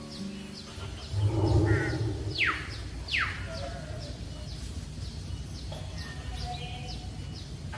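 Birds calling: a run of short high chirps, with two sharp calls that sweep down in pitch about two and a half and three seconds in. Low rumbling noise lies under them during the first few seconds.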